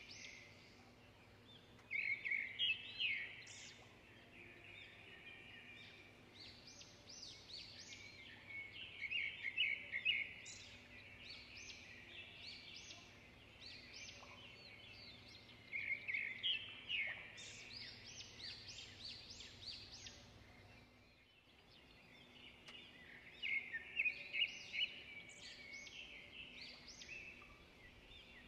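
Small bird chirping and twittering in short clusters every several seconds, over a faint steady low hum that cuts out about two-thirds of the way through.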